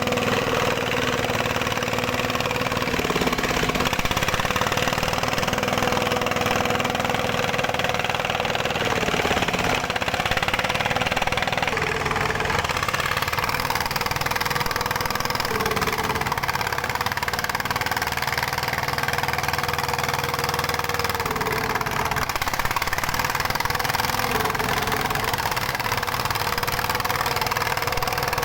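Dongfeng single-cylinder stationary diesel engine running steadily at a constant speed. Its note wavers briefly every few seconds.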